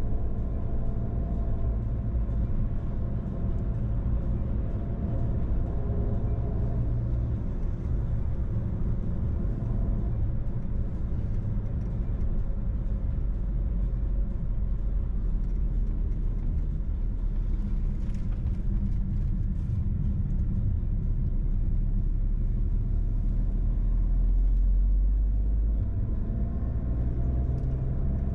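Car engine and tyre noise heard from inside the cabin while driving: a steady low rumble with engine tones that shift a little in pitch. The rumble swells slightly and then drops off about 26 seconds in.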